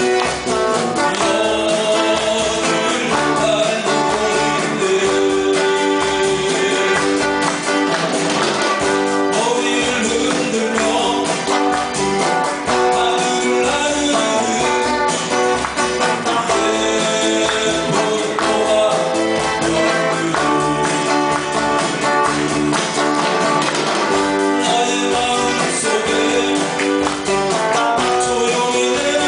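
Amateur band playing 7080-era Korean pop live, a continuous steady stretch of music.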